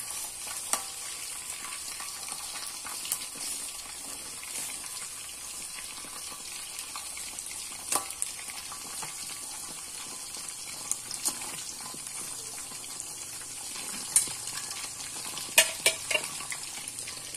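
Chicken pieces deep-frying in hot oil in a steel wok: a steady high sizzle, with a few sharp clicks and knocks scattered through it, the loudest near the end.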